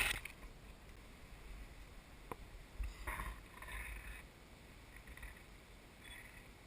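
Rustling and handling noises as a GPS unit is propped up among leaves and twigs, with a sharp click a little over two seconds in, over a low rumble.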